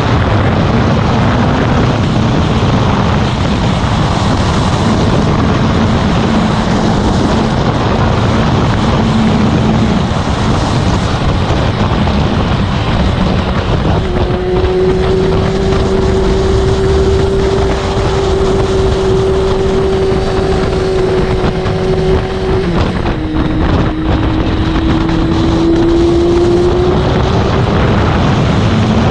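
Motorcycle being ridden at cruising speed, with heavy wind rush on the microphone. About halfway through a steady engine note stands out over the rush; it dips suddenly and then climbs slowly again.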